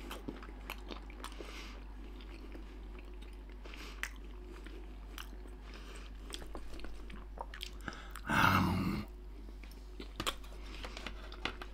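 A toothless man chewing pork belly slices with his mouth open, giving small wet smacking and clicking sounds. A single louder sound lasting under a second comes about eight seconds in.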